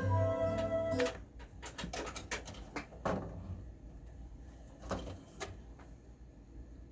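Music playing from the Technics SL-MC4 CD changer stops about a second in. A run of irregular mechanical clicks and clunks follows, the loudest around three seconds and five seconds in, as the changer mechanism moves.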